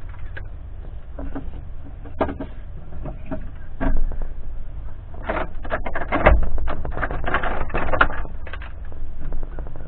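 A series of irregular knocks and clatters, like hard objects being handled or set down, busiest from about halfway through to near the end, over a steady low rumble.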